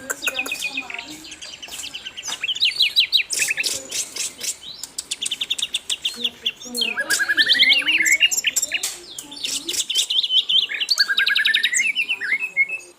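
Sikatan londo (a small flycatcher) singing a busy song of fast trills: quick runs of repeated notes, some rising in pitch, mixed with sharp chips.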